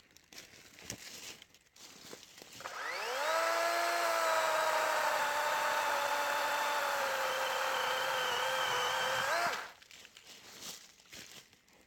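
DeWalt 20-volt 12-inch cordless electric chainsaw spinning up with a rising whine, running steadily for about seven seconds with its pitch sagging slightly under load as it cuts wet oak, then rising briefly and stopping. Light rustling of handling before it starts.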